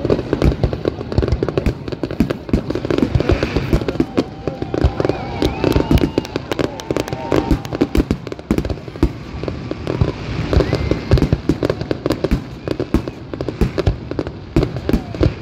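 Fireworks display: a dense, rapid barrage of bangs from aerial shells bursting one after another, with no pause.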